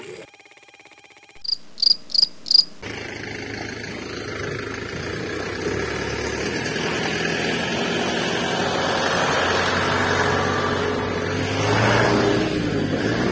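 Four short high beeps about a second and a half in. Then a steady engine-like drone sets in and slowly grows louder, swelling near the end, as the toy water-tanker truck drives off.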